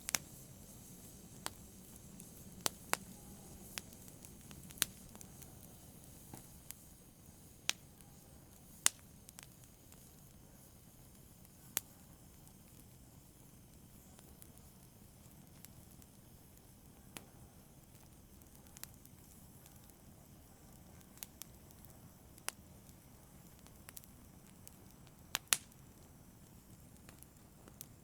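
Small fire crackling softly: irregular sharp pops and snaps, a few seconds apart, over a faint low hiss. The pops come more often in the first half.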